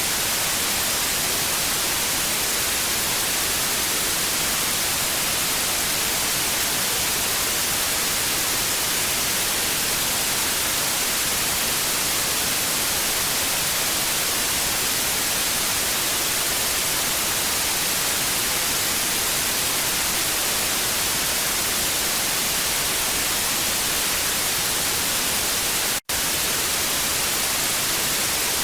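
TV static: a steady white-noise hiss, strongest in the high frequencies, that drops out for an instant near the end.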